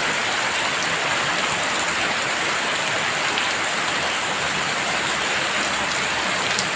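Heavy rain falling steadily, a dense even patter with occasional single drops ticking out above it.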